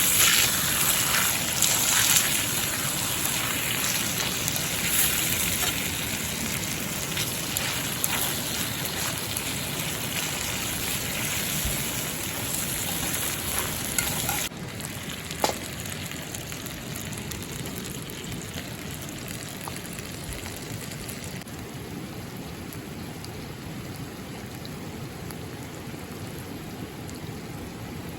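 Chicken steak sizzling over a campfire: a dense, steady sizzle with small pops. About halfway through it drops suddenly to a quieter sizzle.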